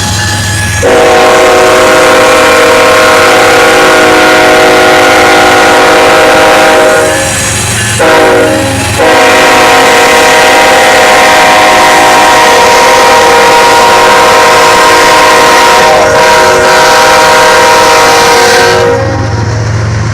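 Norfolk Southern locomotive's air horn blowing very loud as a chord of several tones: a long blast, a short one, then a long blast that stops about a second before the end. The low rumble of the passing train is underneath.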